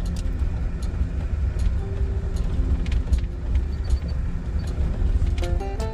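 Steady low rumble of a motor vehicle or street traffic, with scattered light clicks. A few musical notes come in near the end.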